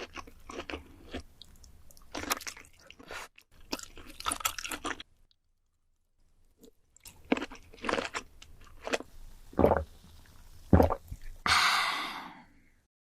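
Close-miked chewing and crunching: a person biting into and eating crisp food, sharp crunches and clicks with a short break partway. A brief hiss near the end fades away.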